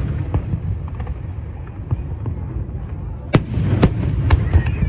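Aerial fireworks going off over a continuous low rumble, with two loud sharp bangs a little past the middle followed by several smaller pops.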